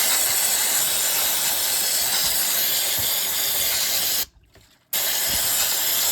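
Pressurised spray hissing in two long bursts, the first about four seconds, then a short break and a second of about two seconds, each starting and stopping abruptly.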